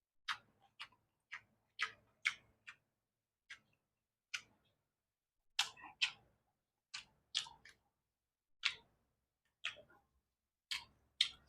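A person chewing and eating close to the microphone: faint, sharp, wet mouth clicks at an uneven pace, about one or two a second.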